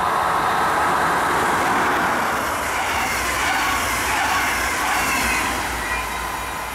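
DB Regio locomotive-hauled double-deck regional train passing at speed, its wheels running on the rails in a steady rush of noise as the coaches go by. The noise fades over the last second or so as the rear cab car moves away.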